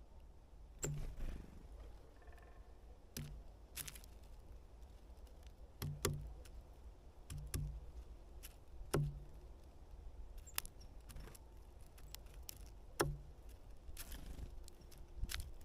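Great spotted woodpecker pecking at wood: single sharp knocks, irregularly spaced every second or two, over a low background rumble.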